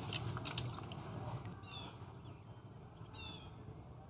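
A bird calling: a short, harsh, high call given twice, about a second and a half apart, over faint low background noise.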